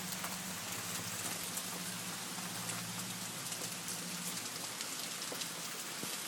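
Steady rain falling, with many individual drops striking close by. A low hum runs underneath and fades out about four seconds in.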